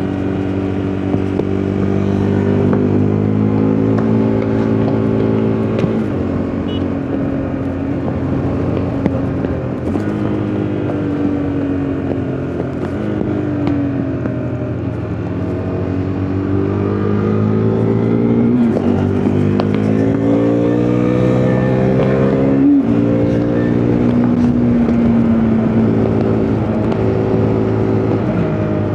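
KTM RC 390's single-cylinder engine under way: its pitch climbs with the revs and drops sharply at gear changes several times, and falls away slowly as the bike slows into corners, with wind noise.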